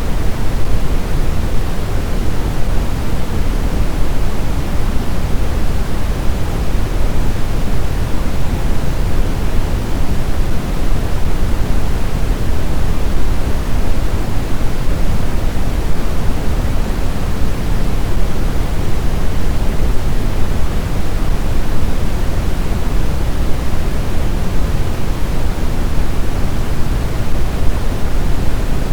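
Blizzard wind: a loud, steady rushing noise, heaviest in the low end, with no separate gusts or howls standing out.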